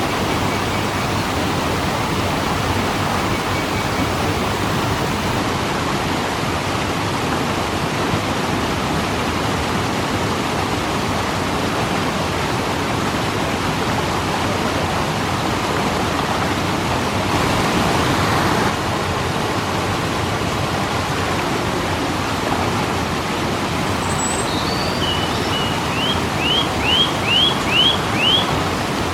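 Waterfall: a steady rush of falling water that swells a little louder for about a second partway through. Near the end a bird calls, first a couple of single notes, then a quick run of about six rising chirps.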